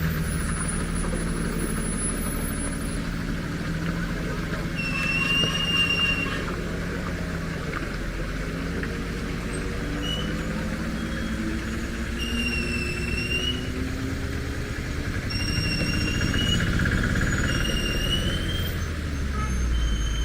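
Truck engine running under load, its pitch rising slowly, with short high whistling squeals coming and going several times over it.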